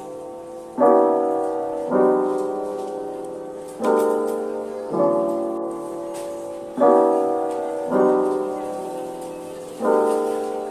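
Background piano music: slow chords, each struck and left to fade, coming about once every one to two seconds.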